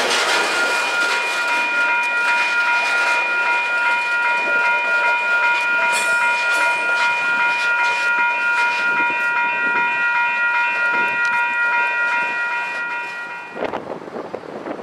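Loaded coal hopper cars rolling past with wheel clatter, while a grade-crossing bell rings in steady repeated tones. About 13.5 seconds in, the bell cuts off and the train noise fades as the last car clears the crossing, with a few knocks after.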